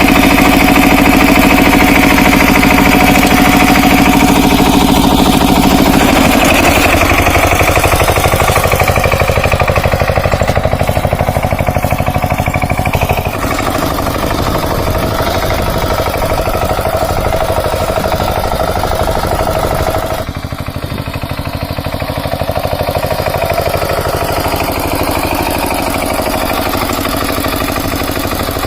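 Kamco power tiller's single-cylinder diesel engine running. Its pitch shifts about six seconds in and again around thirteen seconds, and it gets a little quieter around twenty seconds in.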